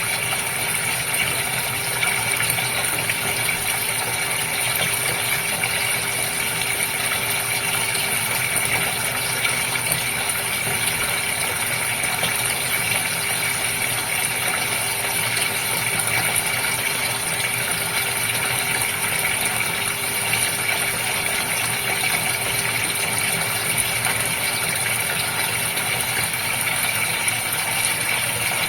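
Goldfish aquarium water pouring and splashing steadily, with the hum of its pump running underneath.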